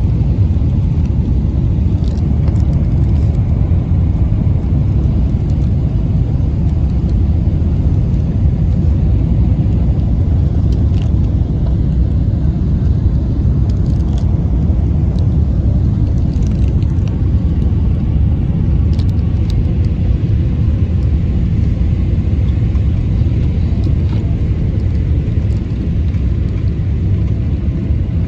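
Steady low rumble of an Airbus A330-300 cabin: engine and airflow noise heard from a passenger seat. A few faint clicks or rattles rise above it here and there.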